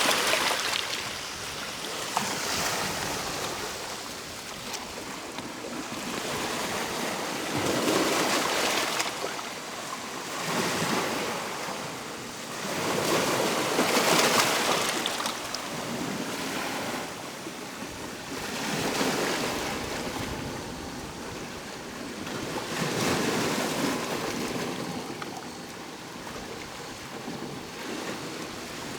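Ocean waves breaking and washing up on the shore, the surf swelling and fading every five or six seconds.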